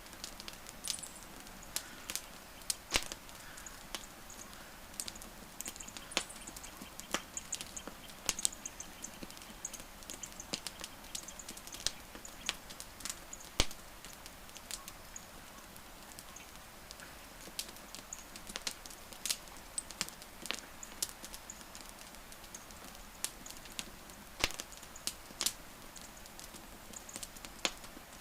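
Wood fire crackling: irregular sharp pops and snaps, a few louder than the rest, over a soft steady hiss of burning wood.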